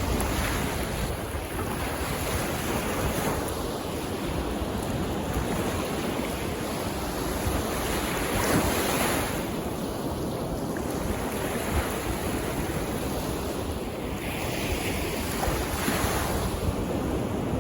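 Sea waves washing in, a continuous surf noise that swells and eases every few seconds, with wind buffeting the microphone.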